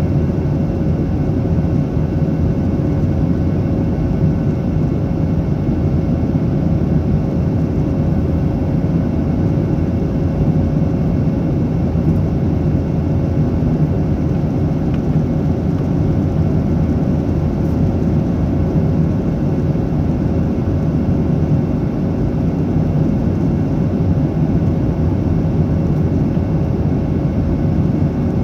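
Steady engine drone and airflow noise of a Boeing 737-800's CFM56-7B turbofans, heard from inside the passenger cabin, with a faint steady hum running through it.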